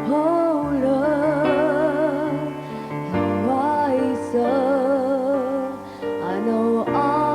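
A slow ballad: a woman singing long held notes with wide vibrato over electric piano and sustained chords, pausing briefly between phrases about three and six seconds in.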